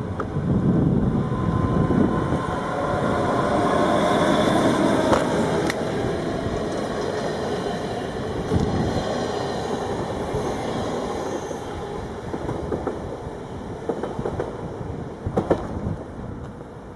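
Train running past on the station tracks: a loud rumble of wheels and motors that swells within the first second and slowly fades away, with a few sharp clicks near the end.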